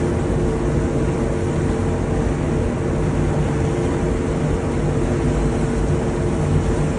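Steady engine drone: a low rumble under a constant hum that does not change.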